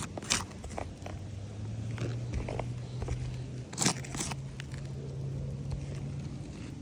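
Footsteps crunching and a few sharp clicks over a steady low hum, the loudest crunches coming about a third of a second in and again around four seconds in.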